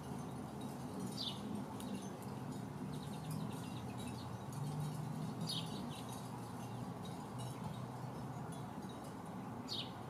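Three short, high bird calls spaced a few seconds apart, over a low steady background hum.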